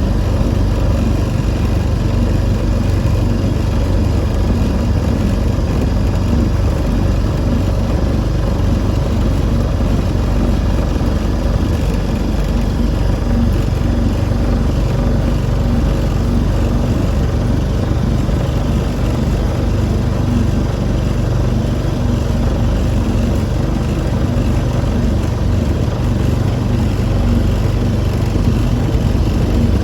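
Motorboat engine running steadily at a constant speed, a continuous low drone that does not change.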